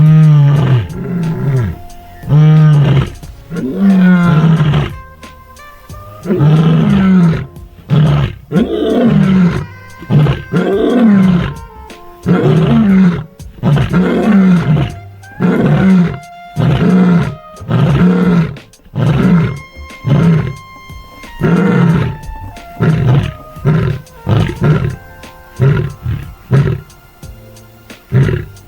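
Lioness roaring a contact call. It is a full bout: long, deep moaning roars that give way to a run of shorter, quicker grunts, tapering off near the end.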